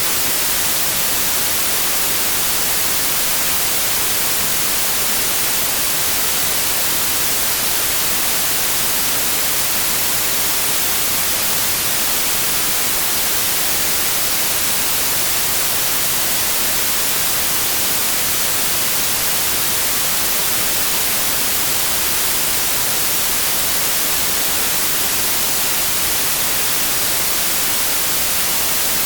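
Synthetic white noise: a loud, steady, unchanging hiss with no events or tones.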